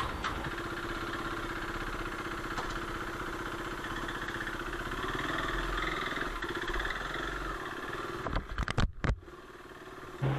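KTM RC 390's single-cylinder engine running steadily at idle; the sound drops away about a second and a half before the end.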